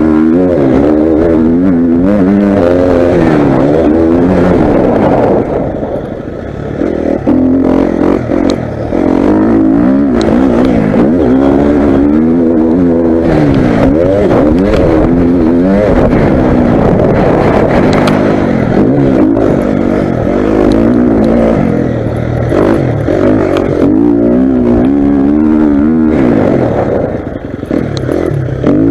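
Motocross bike engine being ridden hard. It revs up and down over and over as the throttle is opened and shut through gear changes, with short drops in level a few seconds in and near the end where it goes off the throttle.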